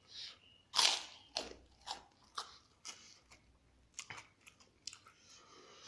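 Close-up eating sounds: someone biting and chewing crispy battered fried egg with rice, one loud crunch about a second in, then smaller crunches about twice a second.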